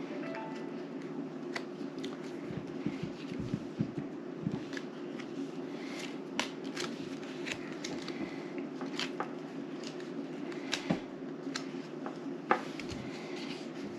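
Playing cards being handled and laid down on a table: scattered light clicks and taps, over a steady low hum.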